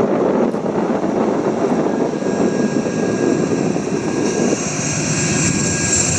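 An approaching freight train: a thin, steady high whine from the train comes in about two seconds in and grows louder, over heavy wind buffeting the microphone.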